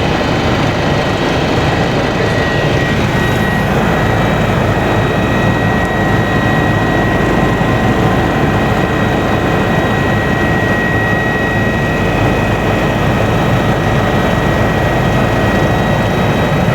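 Kawasaki BK 117 B-2 twin-turbine helicopter in flight, heard from inside the cabin: loud, steady engine and rotor noise with a steady high-pitched whine over it.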